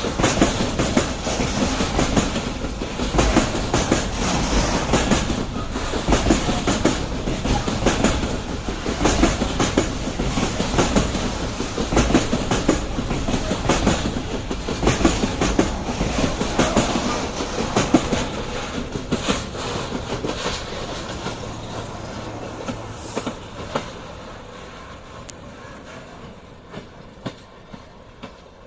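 Container freight train rolling past, its wagon wheels clattering rhythmically over rail joints, then fading away over the last several seconds.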